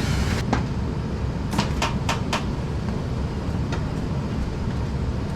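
Sharp metallic clicks and knocks from the sheet-metal cabinet of an HVAC indoor unit being opened up by hand, a quick run of them about one and a half to two and a half seconds in and another near the end. A steady low hum runs underneath.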